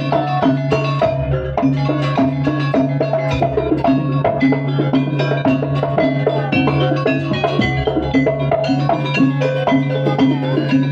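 Jaranan ensemble music: gamelan-style metallophones and drums playing a busy, continuous pattern over a steady low held tone.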